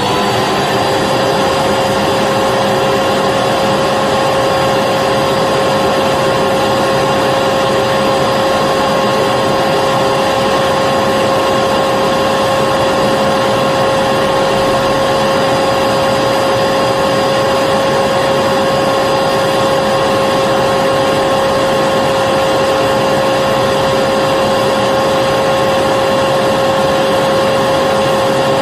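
Vacuum cleaner motor running steadily at full speed: a constant whine over a loud, even rushing of air.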